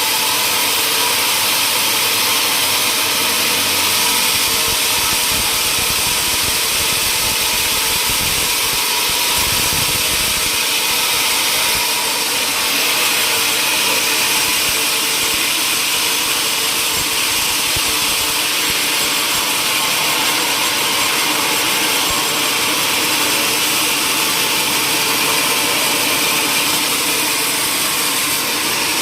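Sawmill or woodworking machinery running steadily, a continuous hissing machine noise with no breaks.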